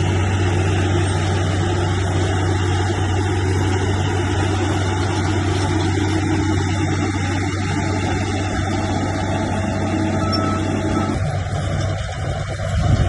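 Heavy diesel engine of a bulldozer running steadily with a deep drone. About eleven seconds in the engine note changes and dips, then swells briefly near the end.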